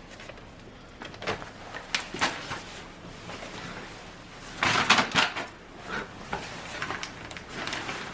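Scattered light knocks and clicks, like cupboard or door handling, with a louder rattling clatter about halfway through.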